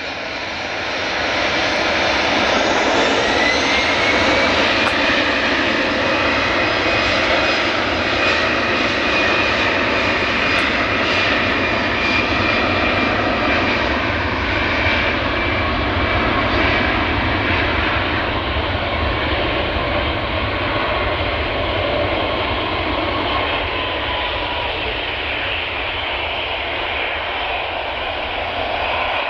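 Airbus A320-214 jet engines at takeoff power: a loud, steady roar with a high whine that rises in pitch over the first few seconds and holds, the whole sound easing off slowly through the second half.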